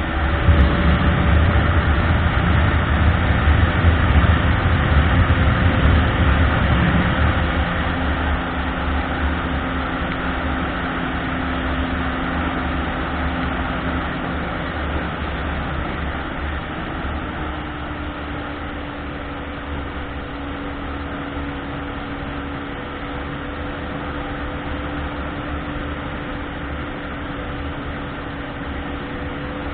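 Car driving along a road, with a steady mix of engine hum and tyre and road noise. It is loudest for the first several seconds, then eases to a lower, even level.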